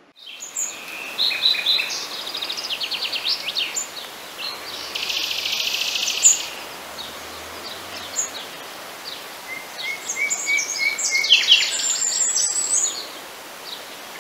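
Several songbirds singing at once: overlapping chirps and rapid high trills, with a dense buzzy trill about five seconds in.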